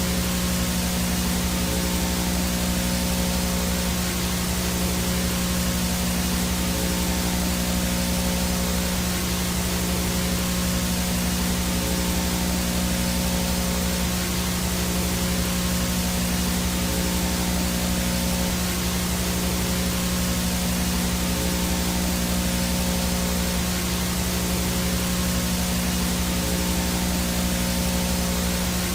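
VHS static with no signal: a steady hiss of white noise with a low hum running under it, unchanging.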